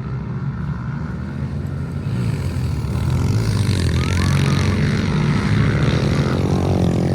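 Pit bike engines running hard during a race, a steady engine note that grows louder about halfway through as the bikes come closer.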